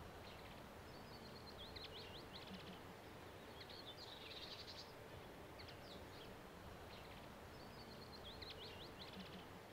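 Faint birdsong: a small bird sings a short chirping phrase several times over a quiet, even background hiss.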